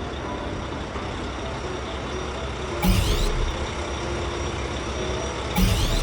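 Cartoon truck engine sound effect running steadily, with two short loud hissing bursts and a low thump, one about three seconds in and one near the end.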